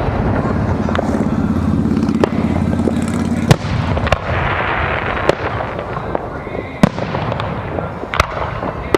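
Aerial fireworks bursting: sharp bangs at irregular intervals, with a spell of crackling about halfway through.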